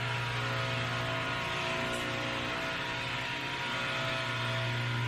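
Steady low hum with many faint steady tones above it and an even background hiss, unchanging throughout.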